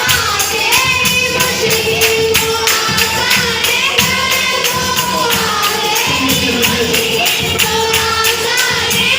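A group of voices singing a worship song together, with a tambourine keeping a steady quick beat.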